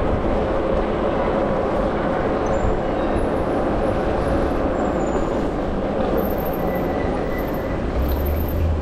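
Steady noise of an e-bike ride through city streets.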